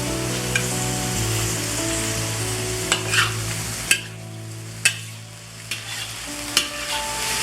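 Chicken pieces sizzling in hot oil in a wok as they are stir-fried, with the spatula knocking against the wok a few times. The sizzle dies down for a moment a little past halfway.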